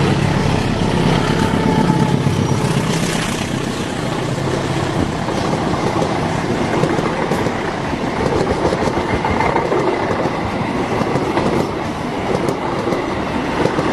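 A train passing close by on the track, its wheels clattering steadily over the rails.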